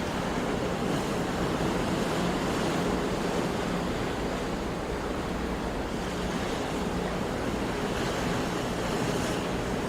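Sea waves washing on the shore in a steady rush, swelling slightly a couple of seconds in and again near the end.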